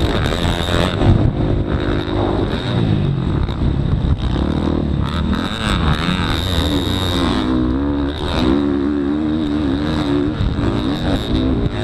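Motocross dirt bike engine heard up close, revving hard. Its pitch climbs and drops again and again as the throttle is worked and the gears are shifted.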